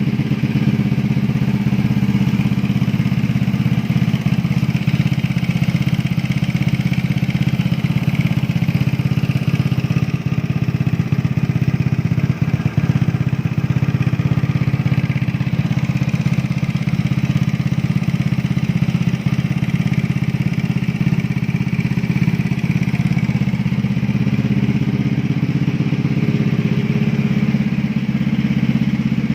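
Yamaha Fino scooter's 220cc four-valve liquid-cooled engine running steadily at a constant speed.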